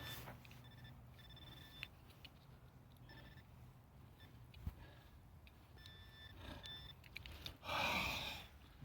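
Metal detector giving faint, short high-pitched beeps on a buried target, several times. Near the end comes a louder rushing noise lasting about a second.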